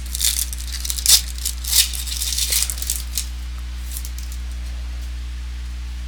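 Trading cards and their wrappers being handled: a few seconds of crinkling and rustling, which stops about three seconds in, over a steady low electrical hum.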